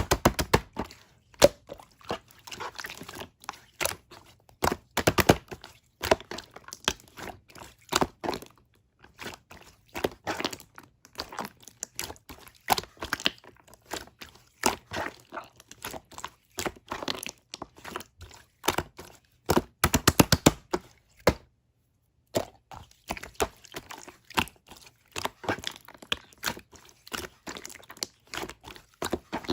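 Clear green slime being worked by hand, giving rapid sharp clicks and pops in bursts, with a short pause about three-quarters of the way through.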